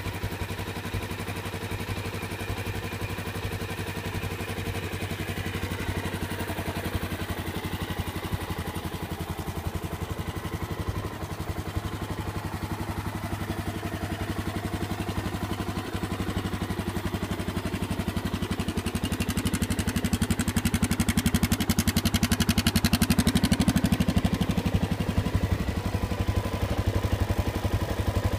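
1985 Honda XL600R single-cylinder four-stroke engine running steadily, growing louder for several seconds past the middle.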